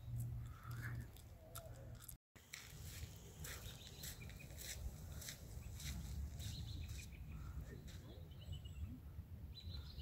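Outdoor ambience with faint bird chirps over a low wind rumble on the microphone, and a run of sharp clicks through the middle. The sound cuts out for a moment about two seconds in.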